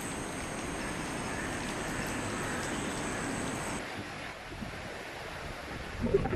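Steady rushing noise of water, with a faint high whine that stops a little over halfway through.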